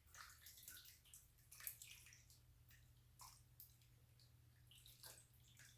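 Sauce poured from a bowl over chopped chicken and potatoes in a casserole dish: faint, scattered wet splashes and drips.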